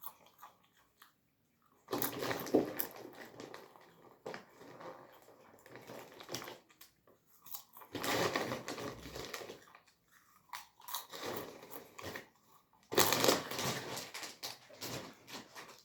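Close-up crunching and crinkling in irregular bursts, with three louder stretches.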